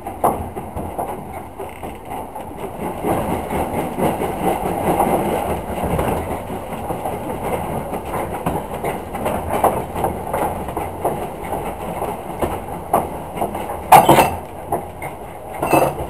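Heritage railway train running along the track, heard from on board: a steady rumble with wheels clicking over rail joints, and two louder knocks near the end, about two seconds apart.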